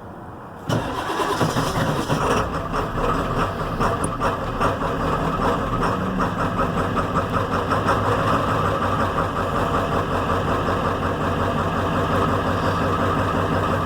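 1997 Ford Powerstroke 7.3-litre V8 turbo-diesel cold-starting after sitting for a couple of weeks in freezing weather. It catches under a second in with a sudden jump in loudness, then runs steadily at idle with a fast, even knocking rhythm.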